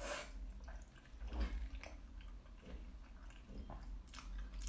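Close-up chewing of soft braised pork knuckle meat and skin, heard as a string of irregular short mouth sounds as pieces are bitten and sucked in.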